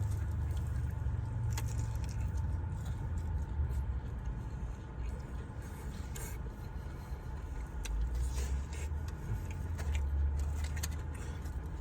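Steady low hum of a car idling, heard from inside the cabin, with a few faint scattered crunches and rustles of someone eating a crispy fried chicken tender.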